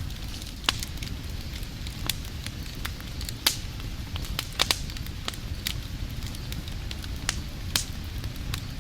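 Wood fire burning with a steady low rumble and irregular sharp crackles and pops, a few louder snaps about a third and halfway through.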